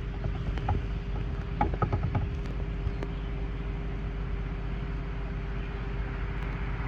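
Steady low mechanical hum with a constant tone held throughout, and a few faint clicks in the first few seconds.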